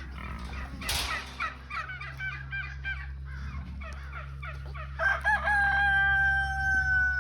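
Chickens clucking in a run of short calls, then about five seconds in a rooster crows, ending on one long held note, over a steady low hum.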